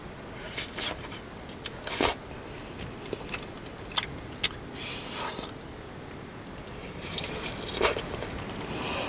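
Close-up eating sounds: biting and chewing, broken by a few short sharp clicks, the loudest about halfway through.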